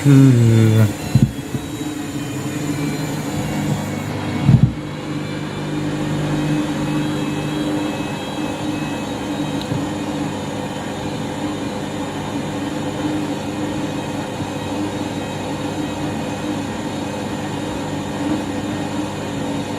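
Washing machine motor and drum running in its first intermediate spin with a heavily over-sudsed load. The pitch falls in the first second and there is a thump about four and a half seconds in, then a steady hum with a high whine over it.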